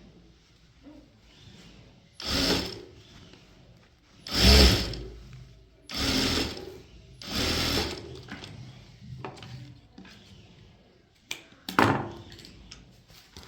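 Sewing machine stitching in four short runs, each under a second, with pauses between them, followed by a few sharp clicks near the end.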